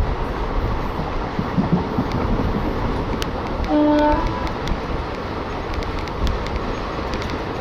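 Steady running noise of a moving Indian Railways passenger train heard from an open coach doorway, with scattered sharp clicks from the wheels and track. About four seconds in, the train horn gives one short toot.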